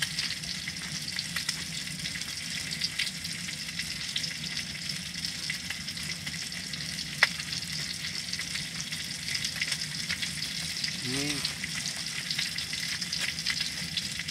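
Pork belly (samgyeopsal) sizzling on a grill: a steady spitting crackle with one sharp pop about seven seconds in.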